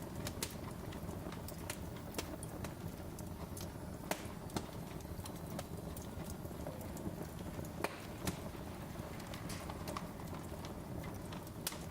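Wood fire crackling in a fireplace: irregular sharp pops and snaps, a few louder ones, over a steady low rumble of burning.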